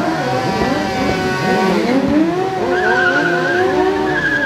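Superbike engine revving in a rolling burnout, its pitch rising and falling as the rear tyre spins. A wavering tyre squeal comes in about three seconds in.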